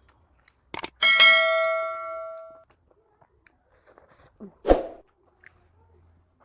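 A sharp clink of metal tableware, followed by a clear ringing tone that fades over about a second and a half. About four seconds in comes one dull knock.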